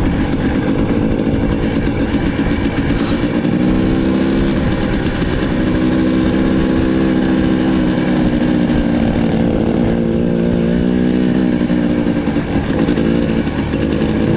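Off-road dirt bike engine running under way on a trail, its pitch holding and then shifting as the throttle changes, over a constant low rumble.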